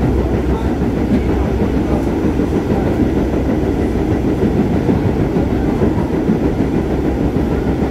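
R44 subway car on the Staten Island Railway running along the track: a steady, low-pitched noise of wheels and running gear that holds at an even level with no breaks.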